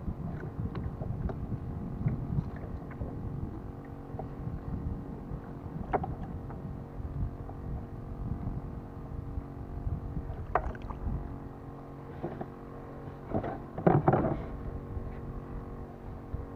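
Water lapping against a kayak hull, with a few knocks on the hull and a louder knock about fourteen seconds in.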